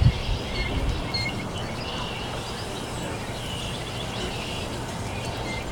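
Small birds chirping in short scattered calls over a steady low background rumble, with a few low thumps in the first second.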